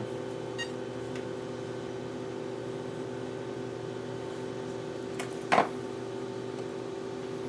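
Steady mechanical hum with several steady tones. About five and a half seconds in, a dog gives a single short, loud bark.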